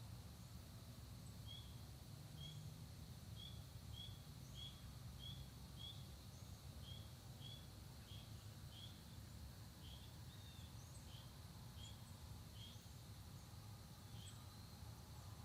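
Faint, repeated short chirp notes from a songbird, about one or two a second, over a steady high hum and a low rumble of rural morning ambience.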